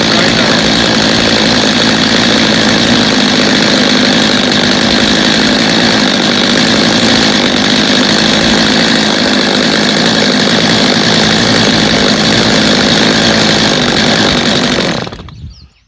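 Two-stroke Stihl chainsaw engine running loud at a steady speed, then shut off abruptly near the end. The saw is freshly repaired with a new carburetor that is dialed right in.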